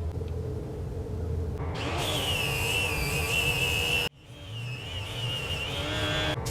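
Electric power tool working wood: a high whine that wavers in pitch as the load changes, over a hiss of material being cut away. It breaks off abruptly about four seconds in and then resumes.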